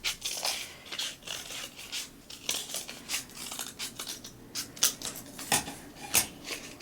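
Scissors snipping irregularly in short cuts, cutting out a shape from folded craft material.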